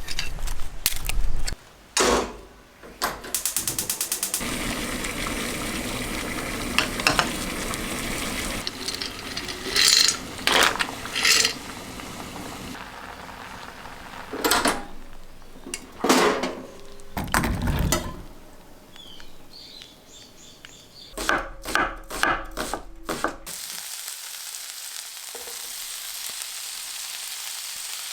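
Cooking sounds: food sizzling in a pan, with several sharp clinks and knocks of utensils against cookware, and a steady high sizzle near the end.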